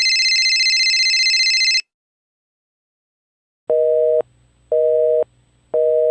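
A single high electronic note held steady for about two seconds, then, after a pause, the start of a North American telephone busy signal: three half-second two-tone beeps, one a second.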